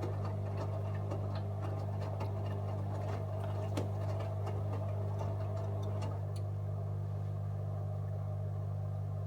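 AEG Öko-Lavamat 74780 washing machine running on a 60 °C colour wash: a steady low motor hum with light, irregular clicks that thin out about six seconds in.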